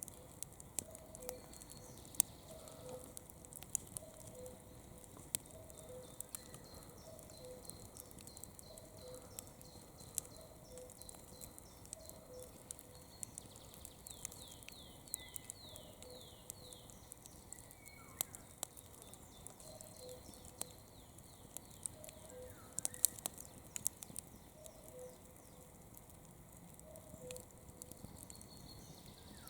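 Wood campfire crackling with scattered sharp pops. Behind it, a bird repeats a low two-note call about every second and a half, and a short run of quick descending high chirps comes midway.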